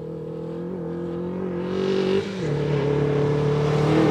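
Fiat Cinquecento rally car's engine under hard acceleration, heard from on board, its pitch climbing steadily. About two seconds in there is a quick upshift: the pitch drops and the sound dips briefly, then climbs again. The rush of tyre and road noise grows louder.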